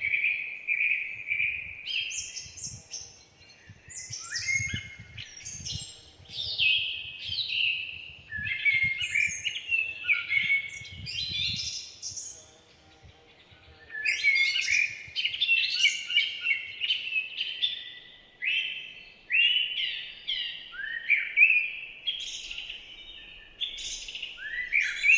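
Songbirds singing, with several quick, overlapping chirping and trilling phrases that go quiet for a moment about halfway through.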